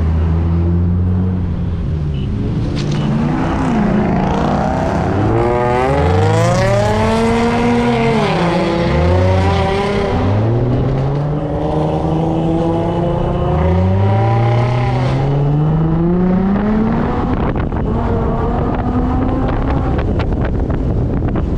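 A loud-exhaust VQ-series V6 sports car engine revved hard again and again, each rev rising and falling in pitch. About two-thirds of the way through comes one longer climbing pull.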